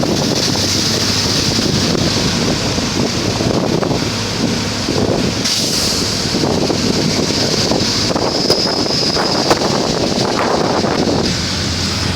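Heavy rain pouring down, a loud, steady rushing hiss.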